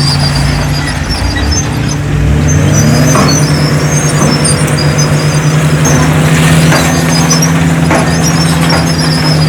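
Heavy earthmoving machine's diesel engine running, rising in pitch about two to three seconds in as it is revved up, then holding steady under load.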